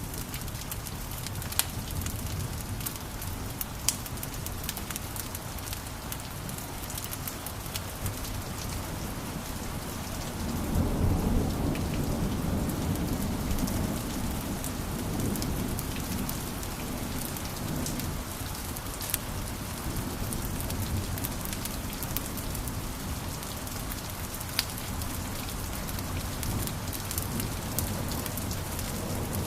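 Wood fire crackling, with a steady hiss and frequent sharp pops. A low rumble swells up about ten seconds in and fades over the next several seconds.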